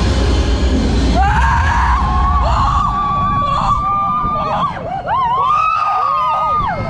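Roller coaster riders screaming: several long, overlapping screams starting about a second in, over the rush of wind and the rumble of the moving coaster train.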